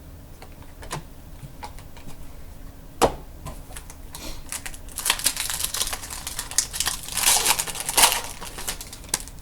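A trading-card pack's foil wrapper crinkling and tearing as the pack is opened and the cards handled, with scattered light clicks and a sharp knock about three seconds in. The crinkling is densest in the second half.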